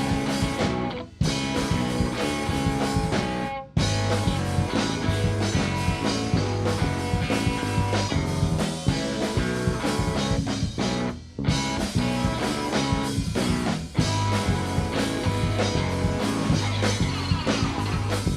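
Live rock band playing an instrumental passage without vocals: guitar, bass and drum kit. The band stops briefly a few times: about a second in, just before four seconds, and about eleven seconds in.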